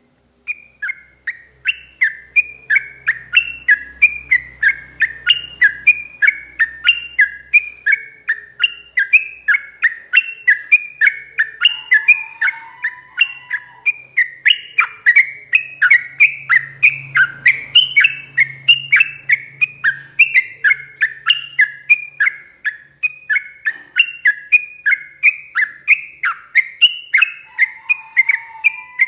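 Yellow-vented bulbul (trucukan) singing a long, unbroken run of quick, repeated chirping notes, about two to three a second.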